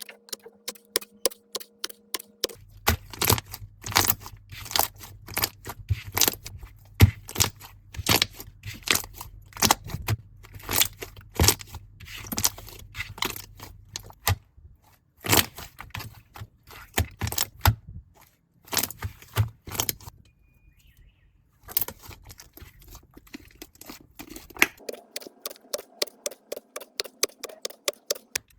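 Slime being squeezed and pressed, giving rapid, irregular clicking and crackling pops, with a short quiet stretch about two-thirds of the way through.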